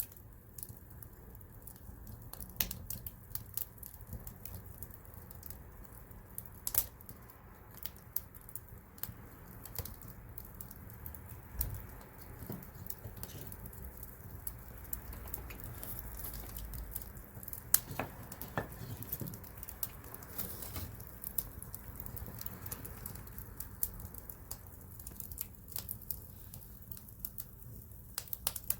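Campfire burning: wood crackling with irregular sharp pops and snaps, a few of them louder, over a low steady rumble.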